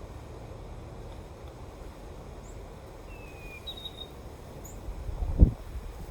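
Wind blowing, rumbling low against the microphone, with one strong gust buffeting it about five seconds in. A bird gives two short chirps near the middle.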